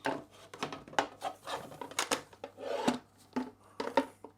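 Himiway Big Dog e-bike's 48-volt battery pack being slid back into its frame mount: irregular knocks, clicks and scraping of the battery against its rail.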